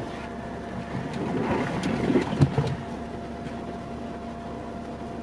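Steady vehicle hum with a couple of constant tones. A stretch of rustling noise starts about a second in, with a few dull thumps about halfway through.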